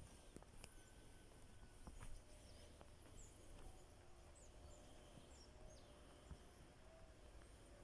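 Near silence in woodland, with a few faint, short high chirps of small birds about three to four seconds in and scattered light clicks.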